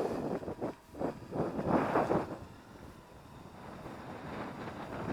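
Strong wind blowing across the microphone in uneven gusts, the loudest in the first two seconds, easing off and then building again near the end.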